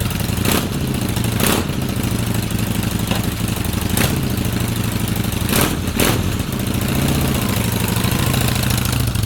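Kawasaki VN800A V-twin motorcycle engine idling through a new aftermarket exhaust, with a steady deep beat broken by a handful of short sharp cracks.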